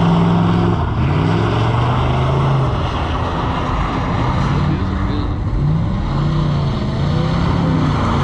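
A vehicle engine revving hard. It is held at high revs for the first few seconds, then rises and falls in pitch several times.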